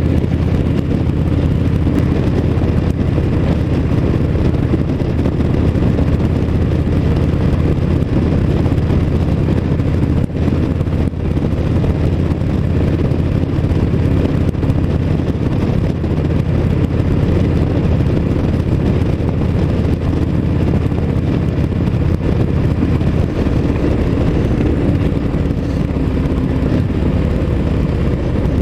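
Motorcycle riding along at a steady cruise, its engine and the road and wind noise running evenly, with no revving or changes.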